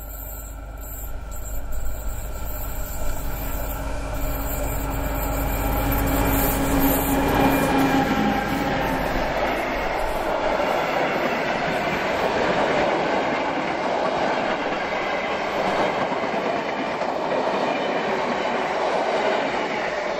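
A diesel locomotive passes close by with its engine droning, loudest about a third of the way in. A train of passenger coaches then rolls steadily past, its wheels rumbling and clacking on the rails.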